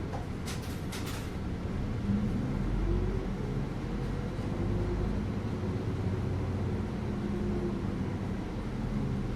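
Bus ride heard from inside the bus: a steady low rumble of engine and road, with an engine tone that rises about two to three seconds in and then holds. Two short clicks come within the first second or so.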